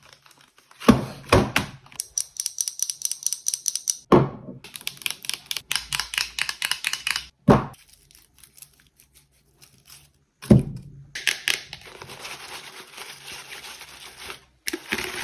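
Ingredients and utensils being handled on a kitchen counter: a string of quick knocks, taps and rustles, in short stretches that start and stop abruptly.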